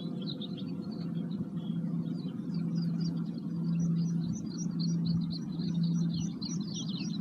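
Birds singing in a continuous run of rapid chirps over a steady low drone, with the last of a singing bowl's ring fading out about a second in.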